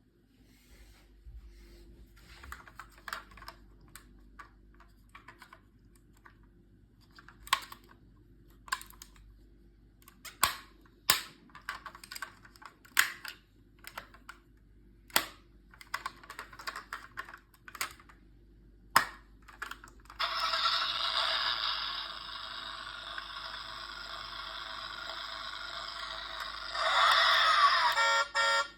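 A 1:24 Lamborghini Urus toy model handled with light plastic clicks and taps. About 20 s in, the toy switches on a steady, thin, buzzing electronic sound, which grows louder about 27 s in.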